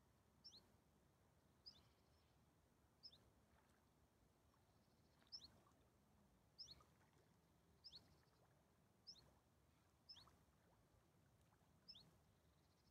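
A small bird calling faintly: a short, high two-part note that falls in pitch, repeated about nine times at irregular gaps of one to two seconds.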